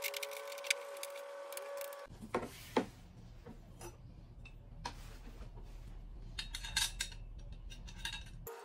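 Metal parts of a small adjustable desk clicking and knocking as its legs and frame are handled and fitted during assembly: scattered sharp clicks, the loudest about a second and about three seconds in, and a cluster near seven seconds. A steady hum lies underneath throughout.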